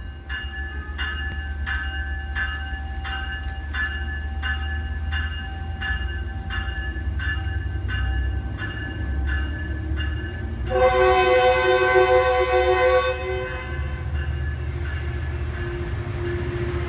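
Metrolink train's bell ringing steadily, about two or three strikes a second, over the low rumble of the train. About ten seconds in the bell stops and the horn sounds once for about two and a half seconds, the loudest sound here.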